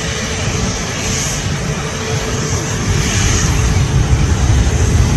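Airbus A320neo jet airliner's engines, a steady rumble with hiss that grows louder near the end.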